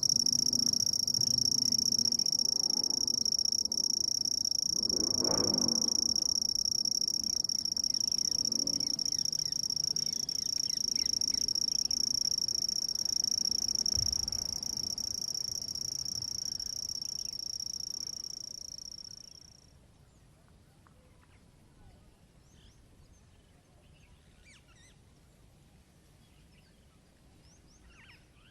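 A handsome trig (red-headed bush cricket) trilling: a continuous high-pitched insect trill made by the male rubbing his raised wings together, his courtship song to attract a female. It fades out about two-thirds of the way through, leaving a quiet outdoor background with a few faint high chirps.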